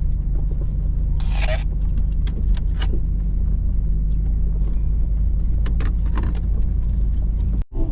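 Hummer H2's V8 engine running at low trail speed, heard inside the cabin as a steady low drone, with frequent sharp clicks and rattles from the body and loose contents as it crawls over rough ground. The sound cuts out briefly near the end.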